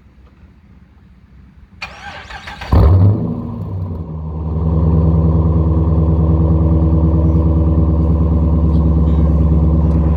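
A 2011 Dodge Durango R/T's 5.7 Hemi V8, breathing through Thrush Rattler mufflers with the resonators deleted, being remote-started. The starter cranks for under a second about two seconds in, the engine catches with a loud flare that eases down, and it then settles into a steady idle.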